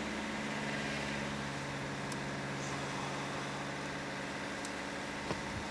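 Car engine idling steadily, with one short click about five seconds in.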